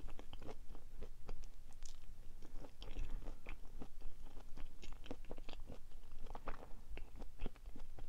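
Close-up chewing of a soft chocolate-covered sweet: irregular wet mouth clicks and smacks with small crunches.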